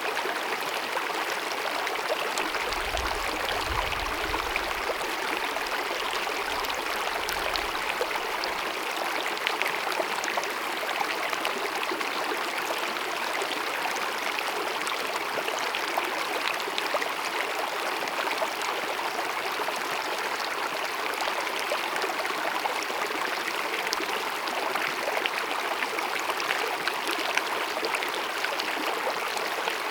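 Small glacier-fed mountain meadow stream cascading over rocks: a steady, unbroken rush and babble of running water.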